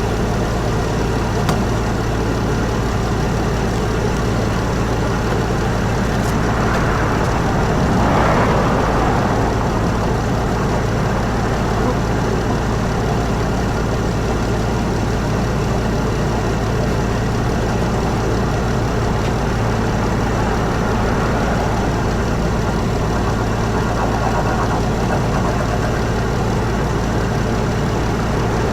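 2018 Dodge Grand Caravan's 3.6-litre V6 idling steadily as it warms up after a thermostat replacement, with the coolant cap off to let air out; a brief swell of noise about eight seconds in.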